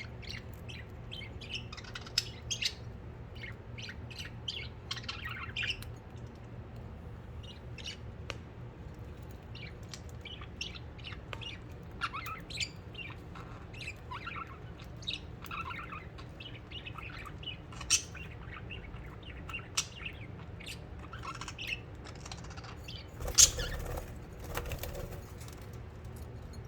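Pet budgerigars chirping, with short, scattered chirps throughout. A brief louder rustling burst comes near the end.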